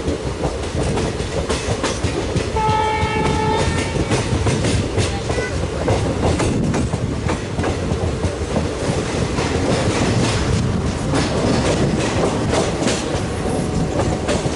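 Train running through at speed, its wheels clicking steadily over the rail joints. About three seconds in, the WDG3A ALCO diesel locomotive's horn sounds once for about a second.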